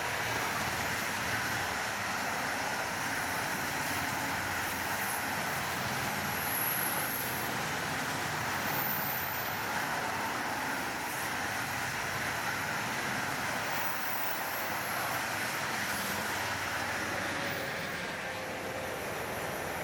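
A RoLa rolling-highway train, lorries carried on low flat wagons, rolling past: a steady noise of many wheels running on the rails. It eases slightly near the end as the last wagons clear.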